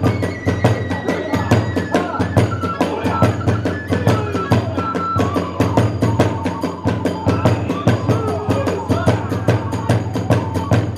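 Hiroshima kagura ensemble music: taiko drums and hand cymbals beating a fast, steady rhythm of about four strokes a second, under a bamboo kagura flute playing a wavering, sliding melody.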